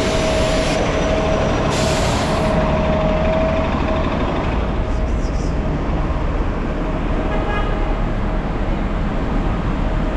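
A motor vehicle running, with steady engine and road noise.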